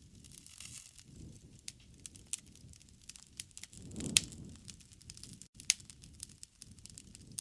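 Campfire burning: wood crackling with scattered sharp pops over a low rumble of flame, with one louder pop about four seconds in.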